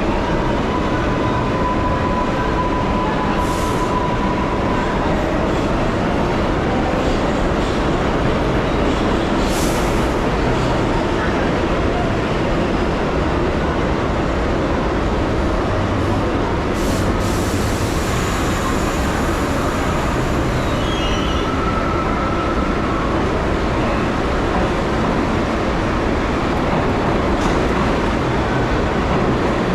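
New York City subway train running between stations, heard from inside the car: a steady, loud rumble of wheels on track, with faint wheel squeals now and then.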